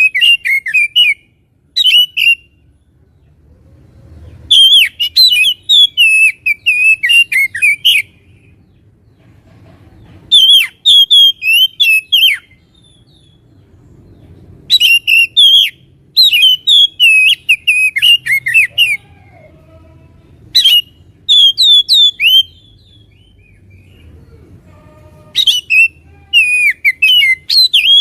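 Oriental magpie-robin (kacer) singing: loud phrases of fast, varied, sharply whistled notes, each phrase lasting two to four seconds, with short pauses between them.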